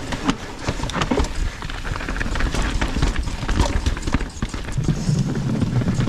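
Mountain bike rolling over rough, rocky and rooty ground. Tyres rumble, and the frame and drivetrain rattle with many irregular knocks. A low hum comes in near the end.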